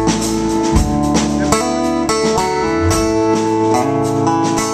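A live band plays an instrumental break in a blues-tinged rock song, with guitar to the fore.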